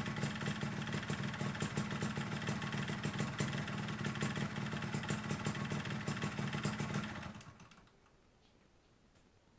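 Yamaha RXZ 135 cc two-stroke single idling while warming up, with a rapid clatter of ticks from a leaking exhaust. The sound stops about seven seconds in.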